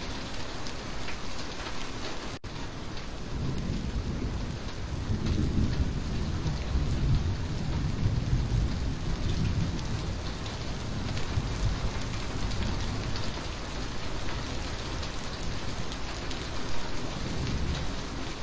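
Steady heavy rain falling, with a long low rumble of rolling thunder that swells a few seconds in and slowly fades. A split-second dropout about two seconds in.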